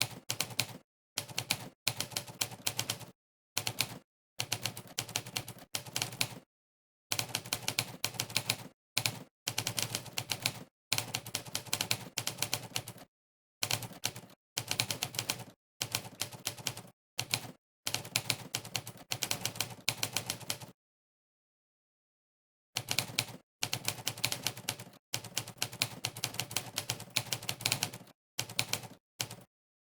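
Typewriter key-strike sound effects from the Monkeytype typing test, one sampled clack per keystroke, in fast runs of several strikes a second broken by short dead-silent pauses, the longest about two seconds roughly two-thirds of the way through.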